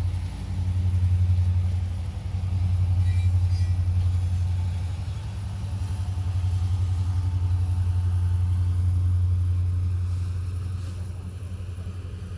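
Low, steady rumble of Mauritania's long iron-ore freight train running, swelling and easing in loudness.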